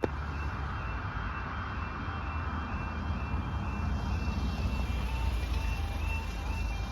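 Road traffic rumbling steadily. A faint repeating pattern of high electronic tones runs alongside, and a lower tone pattern joins about four seconds in.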